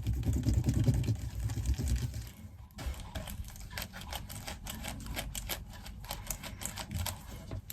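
Low rubbing and handling noise, then from about three seconds in a run of rapid, irregular light clicks. These come from the bicycle's headset and bottom bracket ball bearings being handled and cleaned.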